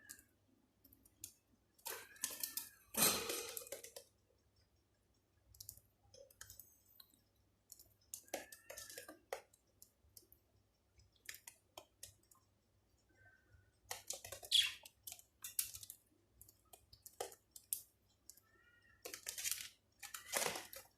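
Small birds pecking and eating, a scatter of irregular sharp clicks in clusters, with a few soft short chirps now and then.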